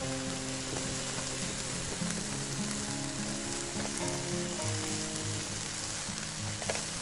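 Olive oil sizzling on a hot cooking stone, a steady frying hiss, under background music with a melody of held notes.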